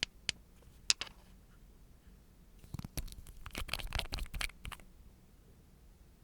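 Close-miked handling of small nail-art tools and items: a few sharp clicks, then about two seconds of scratching and clicking.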